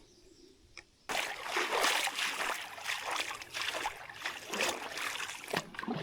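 Creek water splashing and sloshing irregularly, starting suddenly about a second in after a moment of near silence.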